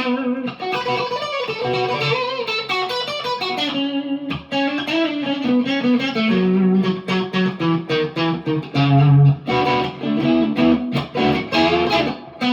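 PRS McCarty 594 Hollowbody II electric guitar played through a Marshall DSL40C valve amp, picking a run of single notes and chords with a louder held low note a little past the middle.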